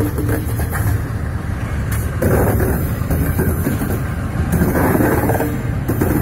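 Slow-moving diesel locomotive and rail-loaded wagon, with steel wheels rumbling and clattering over old track that has gone unused for about 20 years, under the locomotive engine's running. The rumble rises louder about two seconds in and again near five seconds.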